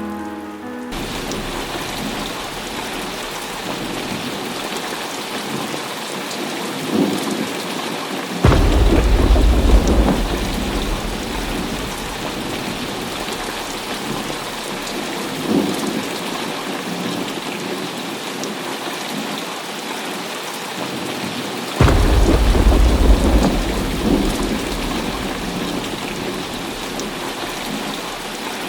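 Heavy rain falling steadily, with rolling thunder: two loud claps about a third of the way in and again about three quarters of the way in, each rumbling away over several seconds, and fainter rumbles between them.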